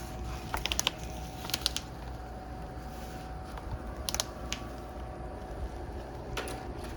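Scattered light clicks and taps from parts being handled, in small clusters, over a steady low hum.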